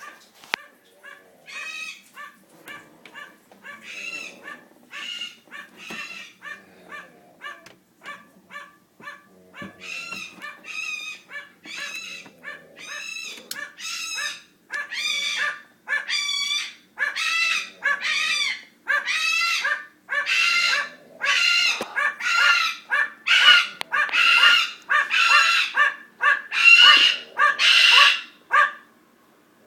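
A Goffin's cockatoo screaming and an Amazon parrot barking like a dog at it, back and forth in a long run of short, repeated calls that grow much louder about halfway through.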